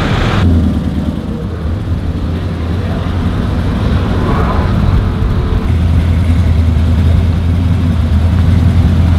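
A truck engine running with a low, steady drone that gets louder about six seconds in.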